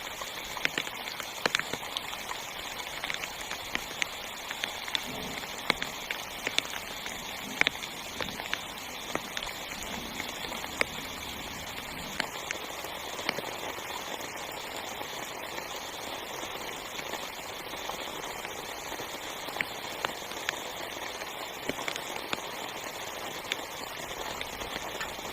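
Heavy rain falling on a tent, heard from inside: a steady hiss with sharp single drop hits at irregular moments.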